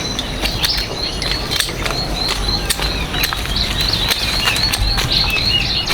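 Small birds chirping: a rapid string of short, high chirps, about three a second, with scattered light clicks underneath.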